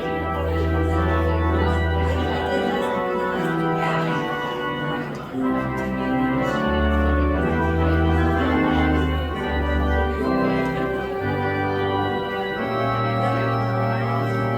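Organ playing slow, sustained chords over a bass line that moves to a new held note every second or two.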